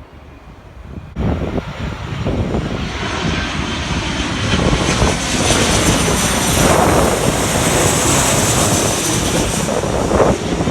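Airplane engine noise that comes in abruptly about a second in and grows louder as the aircraft passes close, with a faint high whine over the rush.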